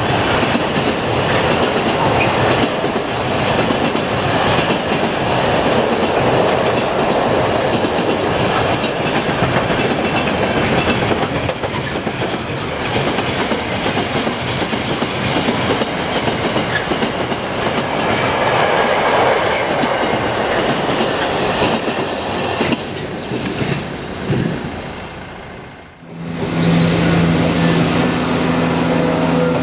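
Intermodal freight train of container flat wagons passing at speed, with the steady rumble and rattle of its wheels on the rails, which fades away as the tail passes. Near the end a steady, low-pitched engine drone comes in from an approaching diesel passenger unit.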